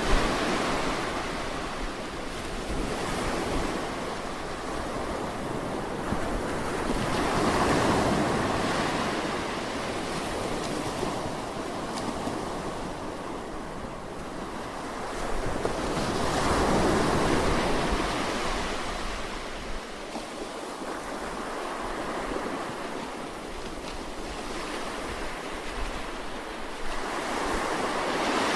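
Sea waves breaking and washing up a shore, each swelling and fading in turn about every nine or ten seconds. Wind rumbles on the microphone and drops away about two-thirds of the way through.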